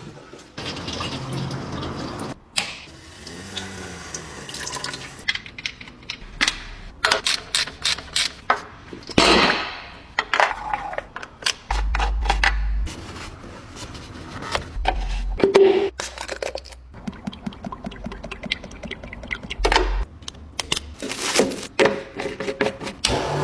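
Car-wash sounds: water spraying and splashing on a car, in a string of short clips that change abruptly, with sharp clicks and knocks between them.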